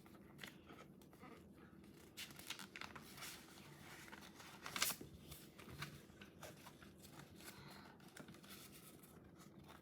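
Near silence with faint rustling and light clicks of paper being handled, the clearest about five seconds in.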